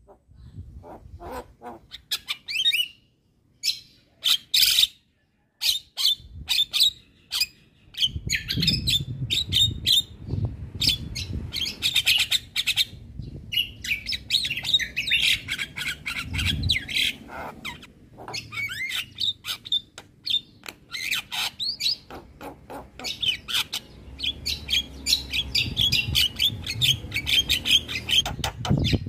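Javan myna (jalak kebo) calling vigorously: a fast, chattering run of harsh chirps, clicks and whistles. After a few short pauses in the first six seconds it becomes almost continuous.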